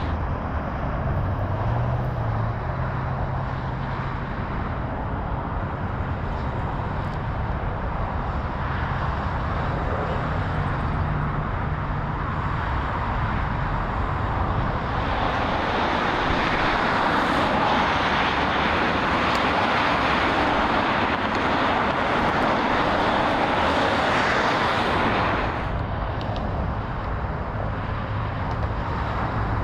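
Steady freeway traffic noise, a continuous rush of passing vehicles, swelling louder in the second half and dropping back suddenly near the end.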